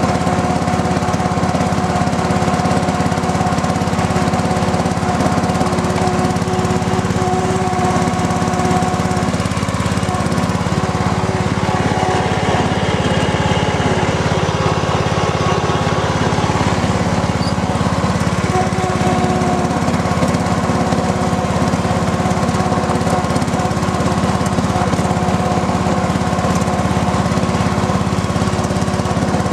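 Engine of a 1986 John Deere 165 hydrostatic lawn tractor running steadily while the tractor is driven.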